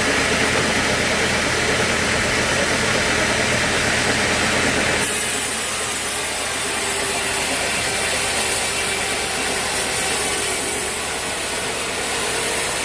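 Sawmill machinery running with a steady mechanical noise; about five seconds in the sound changes, turning to a brighter high hiss.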